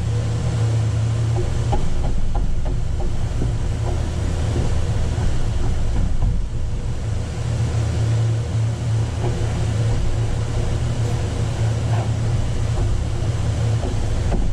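Steady low mechanical hum, with a few faint knocks of handling.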